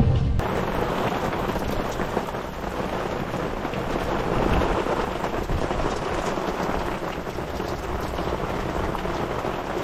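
Rain squall on a small sailing yacht: a steady rushing hiss of heavy rain and wind.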